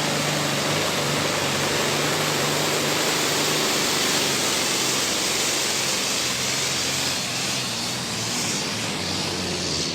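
Diesel super stock pulling tractor running flat out under load during a pull. A loud, steady engine note sits under a strong high hiss, easing off slightly about seven seconds in.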